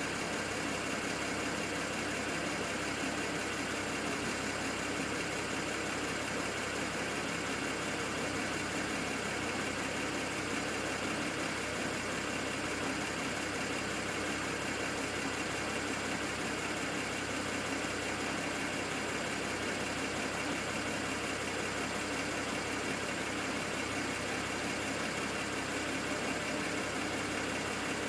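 BMW 135i's N54 twin-turbo straight-six idling steadily, an engine the owner is logging for a misfire at idle.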